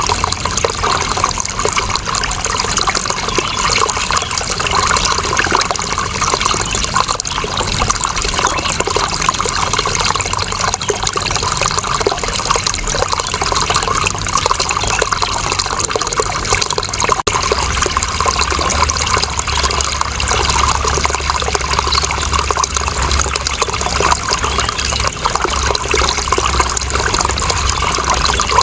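Running water flowing steadily, an even, unbroken rush. About halfway through, a low rumble becomes stronger beneath it.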